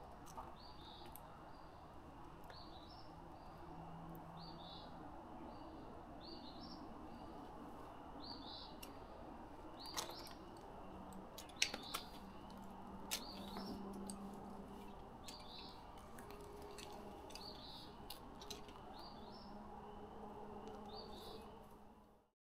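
A small bird repeats a short, high chirp roughly once a second over faint steady outdoor noise. A few sharp clicks come in the middle, the loudest about halfway through, and the sound fades out at the very end.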